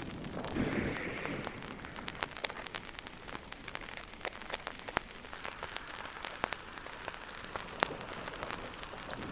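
Rain falling steadily, with many sharp clicks of single drops striking close by and a brief louder swell about a second in.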